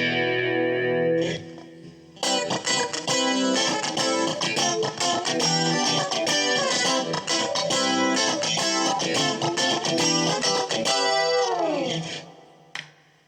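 Fresher Straighter FS-331S Strat-style electric guitar played on a clean amp tone. A held chord rings out, and after a short pause comes a run of picked and strummed notes. Near the end the notes slide down in pitch and fade, followed by a couple of single plucks.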